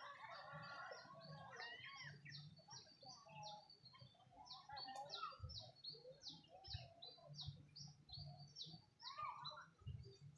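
Birds chirping faintly: quick, short high notes repeating a few times a second, with lower warbling calls mixed in, over a low steady hum.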